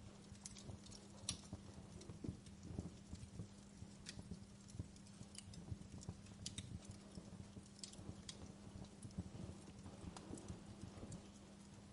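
Fire crackling in a fireplace: faint, irregular small pops and snaps over a steady low hum.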